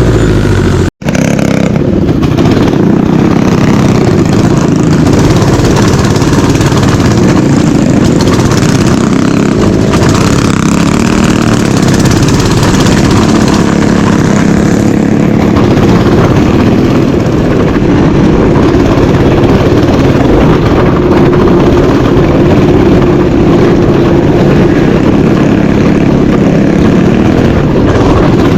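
Mini bike engine running steadily under load on a trail ride, loud throughout. The sound drops out briefly about a second in.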